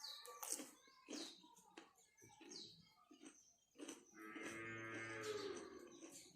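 Close-up eating sounds: sharp mouth clicks and smacks from chewing. About four seconds in comes one long, steady, low drawn-out hum or call lasting under two seconds.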